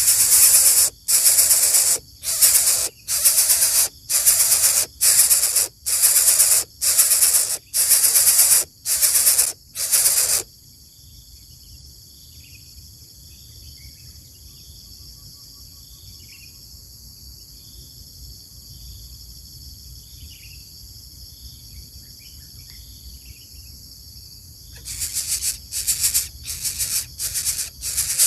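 Loud hissing bursts repeating about once a second, which stop about ten seconds in. A quieter stretch of steady high insect-like trilling with short falling bird chirps follows, and the hissing bursts start again near the end.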